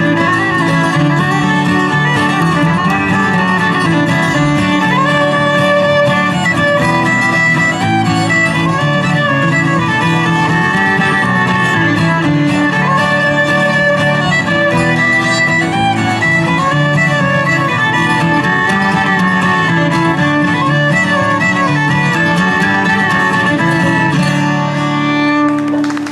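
Live bluegrass band playing an instrumental tune led by fiddle over strummed guitar, ending on a held final chord near the end.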